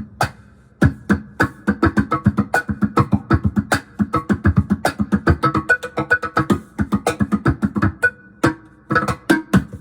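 Laptop cajon drummed in a quick run of hits, about five or six a second, played through a Digitech BP355 bass multi-effects pedal. The effect gives each hit a pitched, ringing tone.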